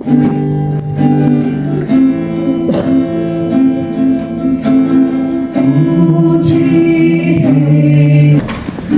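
Church music: singing with acoustic guitar, held notes changing every second or two.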